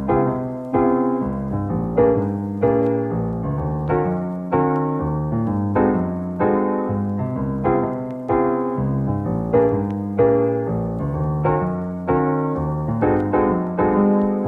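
Background music: a solo piano piece of single struck notes and chords, each ringing out before the next, at an even, unhurried pace.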